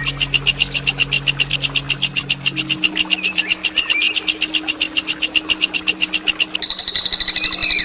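Songbird delivering a long, fast rattling trill of about ten notes a second, a rolling song used as masteran for training competition birds. Near the end it changes to a buzzy, ringing note.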